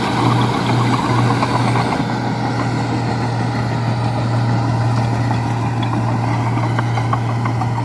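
Bulldozer diesel engine running with a steady low drone.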